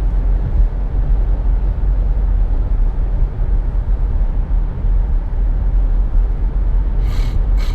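Steady low road and engine rumble heard inside the cabin of a 2017 Nissan Rogue driving at highway speed, with two brief hissing noises near the end.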